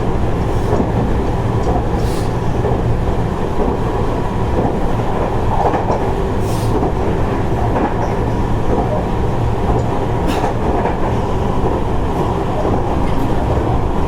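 Seibu 30000 series electric train running at speed, heard from inside the passenger car: a steady rumble of wheels on rail with a faint steady tone and a few brief hisses.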